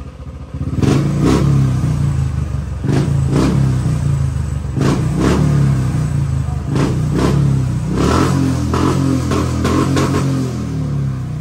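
Royal Enfield single-cylinder motorcycle engine running and being revved with short throttle blips, often two in quick succession, repeated every second or two; the blips begin about a second in.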